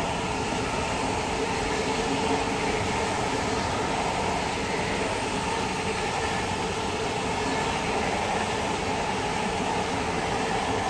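Deutsche Bahn ICE high-speed train passing at speed: a steady rolling noise of wheels on rails as the long rake of coaches goes by.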